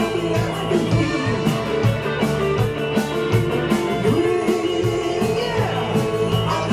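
Rock band playing, with guitar over a steady drum beat and some gliding guitar notes.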